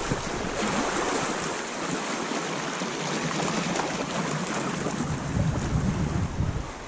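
Rushing water of a shallow river rapid, a steady hiss. Wind buffets the microphone in low rumbles, strongest from about five to six and a half seconds in.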